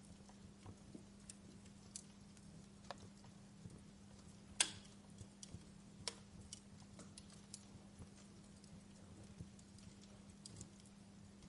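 Wood fire burning in a fireplace, crackling: faint, irregular sharp pops and snaps, the loudest about halfway through, over a steady low hum.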